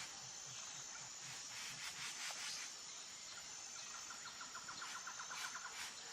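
Faint outdoor nature ambience: a thin, steady high whine like insects, with scattered soft ticks. Near the end comes a quick trill of about eight notes a second, lasting about a second and a half.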